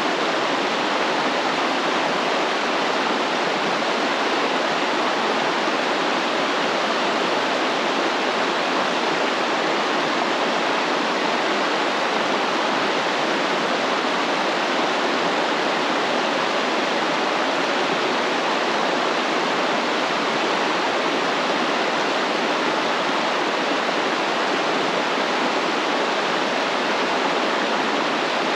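Stream water flowing and rushing, a steady, even splashing with no breaks.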